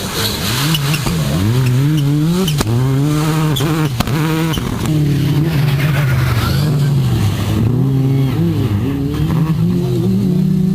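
Rally car engine revving hard, its pitch climbing and dropping back again and again through gear changes and lifts off the throttle, with two sharp knocks a second and a half apart early on. It settles into a steady high-revving note near the end.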